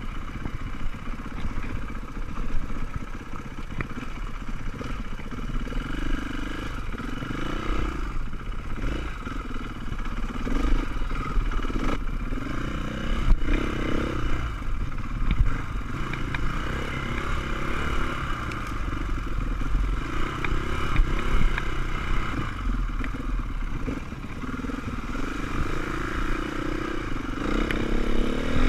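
Off-road motorcycle engines revving up and down as the bikes ride, with a quick rise in revs near the end.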